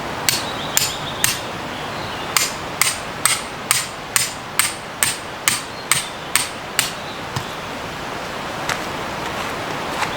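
A hammer driving a metal tent peg into the ground with sharp, ringing blows: three strikes, a short pause, then about eleven more in a steady rhythm of roughly two a second.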